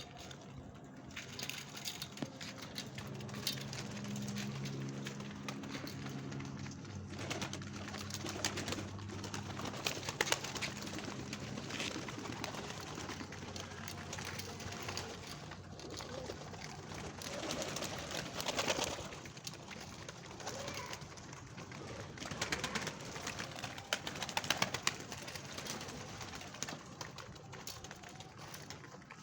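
Pigeons cooing: a run of low coos through the first ten seconds or so, with many short clicks and rustles throughout.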